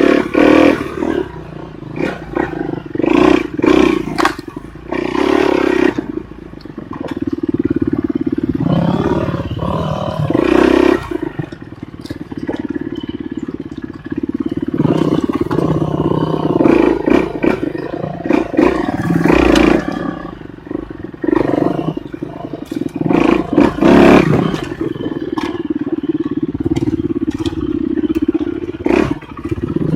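Enduro motorcycle engine running under changing throttle, revving up in repeated surges and dropping back between them, with frequent knocks and clatter from the bike over rough ground.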